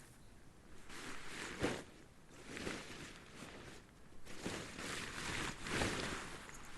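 Irregular footsteps and rustling on the forest floor, with a sharper thump about a second and a half in and another near the end.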